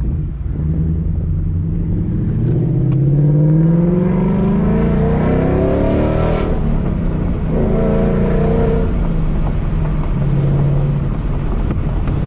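A 2019 Mustang GT's V8 with a Corsa Extreme active exhaust accelerating hard, heard from inside the cabin. The revs climb for several seconds, drop at a gearshift about six and a half seconds in, climb again, then settle to a steadier cruise.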